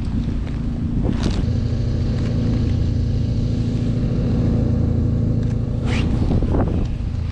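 Car engine idling steadily with an even low hum. A brief click comes about a second in and another around six seconds.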